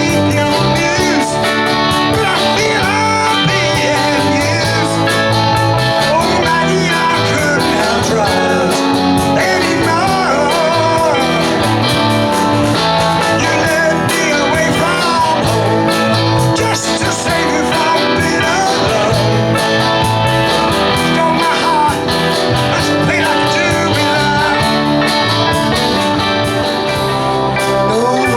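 Live rock band playing a song at full volume, with guitar prominent.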